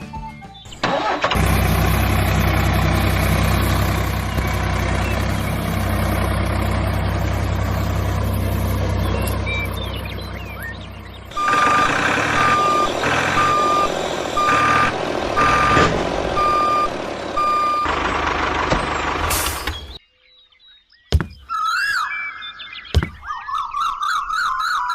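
A vehicle engine runs steadily, then with a reversing-alarm beeper sounding about once a second over it. It cuts off suddenly, followed by a few clicks and warbling whistles.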